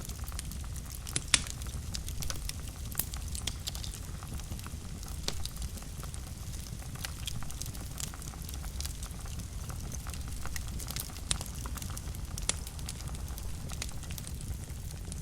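Wood fire burning in a fireplace: a steady low rumble of flame with frequent irregular crackles and pops, the sharpest pop about a second in.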